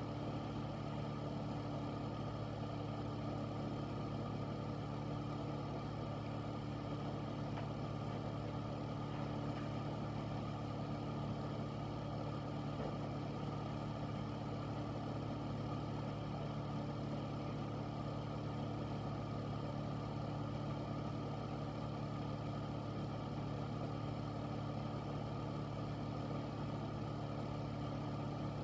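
Air filter (room air purifier) running steadily: a constant fan whoosh over a low motor hum.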